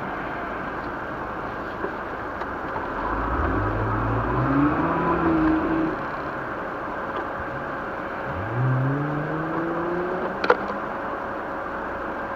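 Car engine accelerating twice, its pitch rising each time, over a steady rush of road noise. A single sharp click comes near the end.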